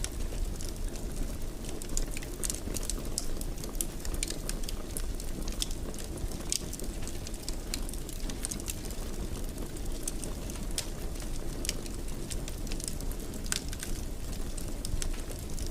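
Wood fire crackling in a fireplace: a steady low rush of burning with irregular sharp pops and snaps scattered throughout.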